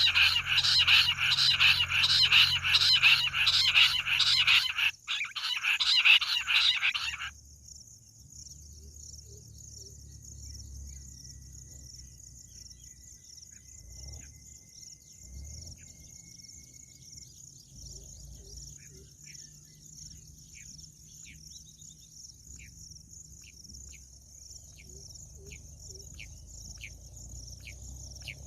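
Loud, rapid, chattering chorus of bush quail calls. It breaks briefly about five seconds in and stops abruptly about seven seconds in. After that there is a steady high insect trill, and from about two-thirds of the way through, short sharp chirps come every second or so.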